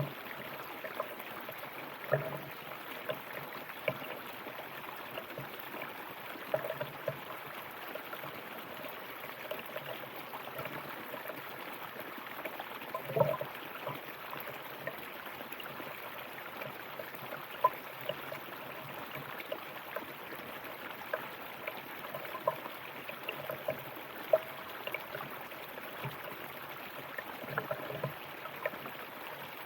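River water running steadily, with small gurgles and splashes popping out of the flow now and then.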